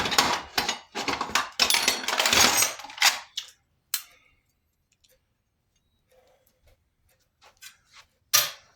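Metal parts clattering and knocking as they are handled and fitted for about three seconds, then a sharp knock near the end.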